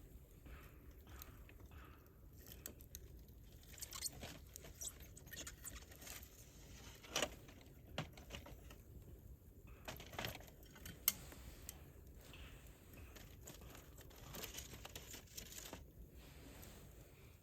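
Wood campfire crackling faintly, with irregular pops and snaps; the sharpest snaps come about 7 and 11 seconds in.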